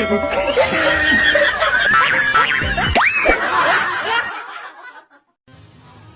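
People laughing and snickering over music for about four seconds, fading out, then a short silence and a quieter stretch.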